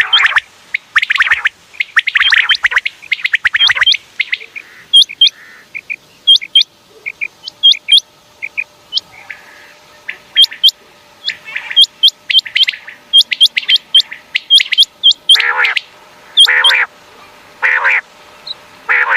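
Common quail calling: a string of short, sharp, upward-flicked whistled notes, broken by several louder bursts of harsh, rattling trills.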